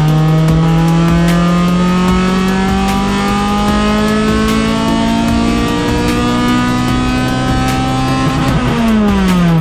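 Honda B20V four-cylinder engine pulling hard through the revs, its note climbing steadily in pitch for about eight seconds, then dropping away near the end as the revs come down.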